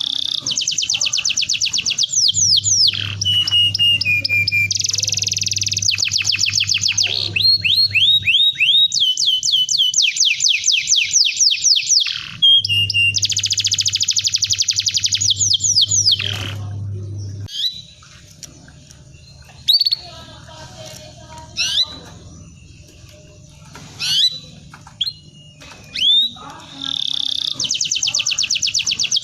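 Domestic canary singing: long, rapid trills of quickly repeated high notes that change from phrase to phrase. A quieter stretch of scattered single chirps falls about two-thirds of the way through, then the trills resume near the end.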